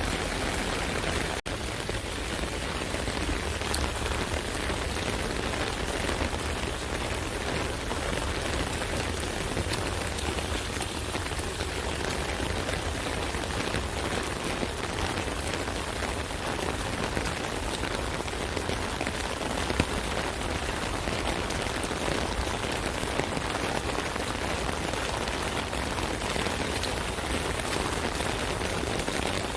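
Steady rain falling on an umbrella, a dense even spread of drops hitting the canopy, with a momentary dip about a second and a half in and one sharper drop near the middle.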